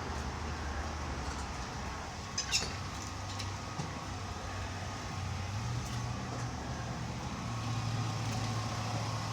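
Steady low mechanical drone, like a vehicle running or traffic, with one short sharp sound about two and a half seconds in.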